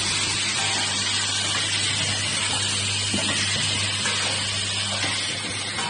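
Automatic wire welding machine for nails and hooks running: a steady hiss over a low, even hum, with a few faint ticks.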